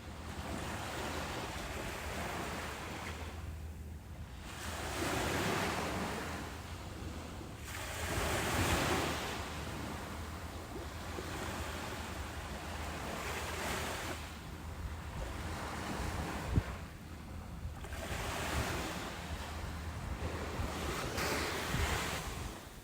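Ocean surf: waves breaking and washing up the beach, swelling and falling back several times a few seconds apart over a steady low rumble.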